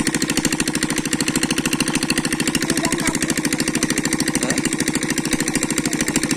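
Small engine running steadily at an even speed, with a rapid, regular thudding beat.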